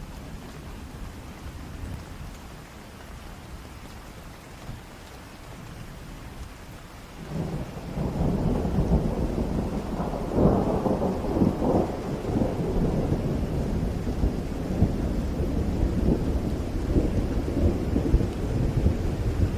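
Steady rain with a long roll of thunder that sets in about a third of the way through. It peaks in loud cracking rumbles a few seconds later, then keeps rolling and rumbling.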